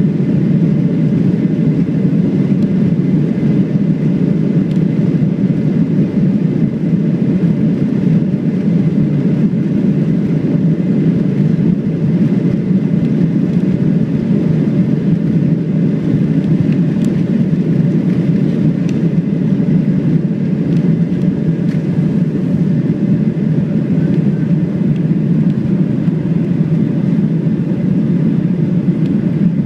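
Steady, even rumble and hiss of a Boeing 737-700's CFM56-7B jet engines and airflow, heard from inside the passenger cabin.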